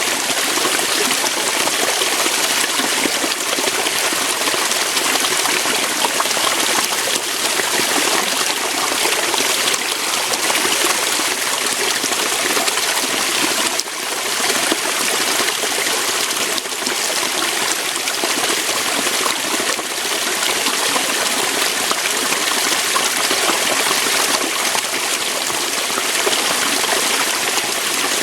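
Waterfall: water pouring steadily over rocks, a continuous rushing splash with no change in strength.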